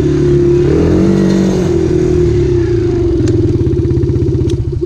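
Dirt bike engine running while being ridden, revving up briefly about a second in, then easing off to a lower, pulsing run toward the end.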